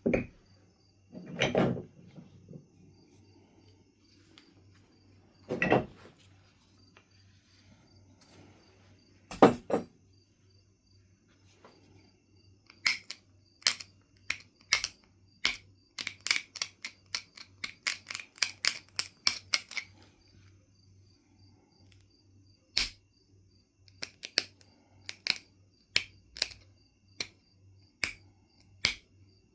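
Knife River Flint being knapped, stone ticking against the knapping tool. A few heavier knocks come in the first ten seconds, then a long run of short, sharp clicks, two or three a second, from about halfway through.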